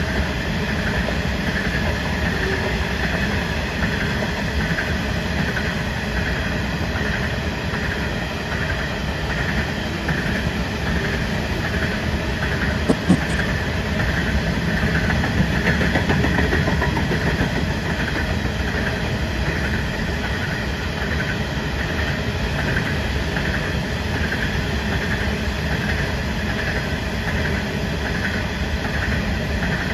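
Long coal train of steel hopper wagons rolling past, a steady noise of wheels on rail that holds throughout, with one short clack about halfway.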